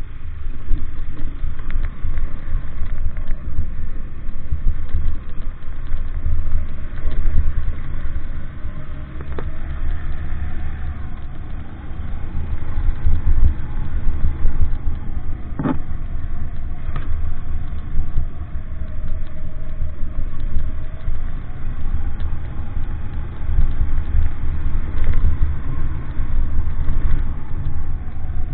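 Vehicle travelling along, with a deep, uneven rumble and an engine note that slowly rises and falls; a couple of brief knocks come about halfway through.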